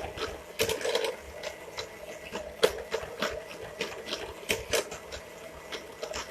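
Electric hand mixer running steadily while creaming butter and sugar in a small bowl, a constant motor hum with irregular sharp clicks over it.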